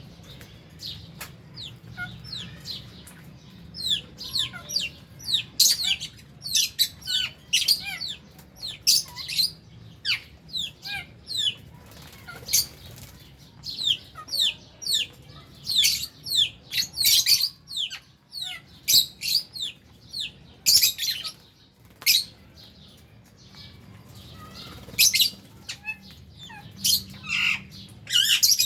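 A flock of lovebirds chattering: a dense, continuous stream of short, shrill, high-pitched chirps and squeaks, many sliding downward, overlapping from several birds at once.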